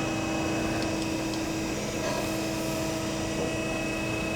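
Harig EZ-Surf surface grinder running: the spindle motor and hydraulic table drive give a steady hum with several held tones, which shift slightly about two seconds in as the table keeps moving back and forth.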